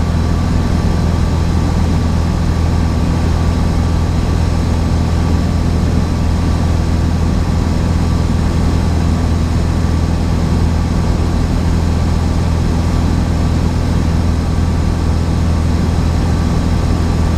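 Cessna 172's piston engine and propeller running with a steady, unchanging low drone.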